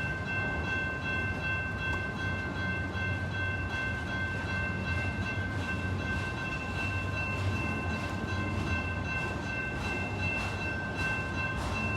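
Freight train rolling past: a steady low rumble with constant high ringing tones, and faint repeated clacks of wheels over rail joints near the end.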